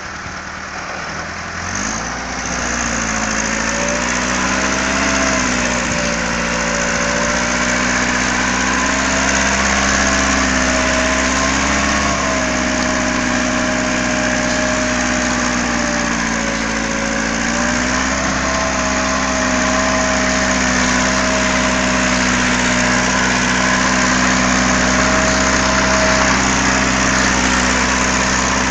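Tractor engine running steadily, its speed picking up about two seconds in and then wavering slightly up and down.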